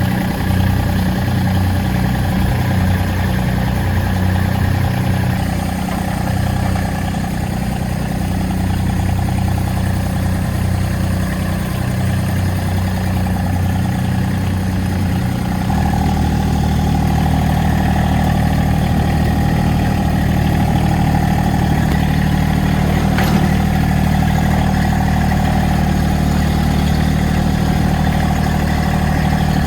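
Massey Ferguson GC1723E subcompact tractor's three-cylinder diesel engine running, its beat wavering unevenly at first. About halfway through it steps up to a steadier, slightly stronger note.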